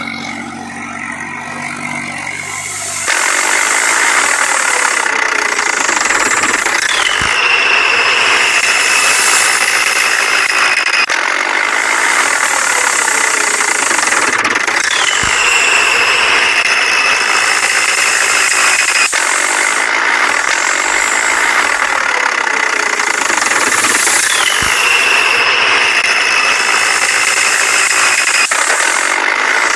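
Tractor engine running with a steady rattle, a short falling squeal and a click coming back every eight or nine seconds, starting up loudly about three seconds in.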